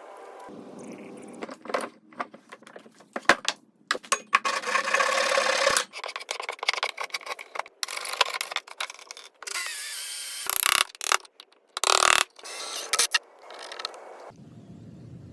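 A fast-cut series of short woodworking tool and mechanism sounds, each starting and stopping abruptly, with sharp clicks between them.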